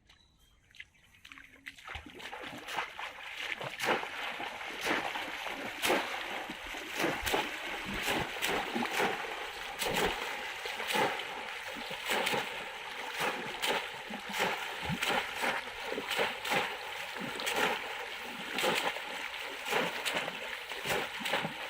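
Repeated splashing and sloshing of shallow river water, beginning about two seconds in and going on in quick irregular strokes.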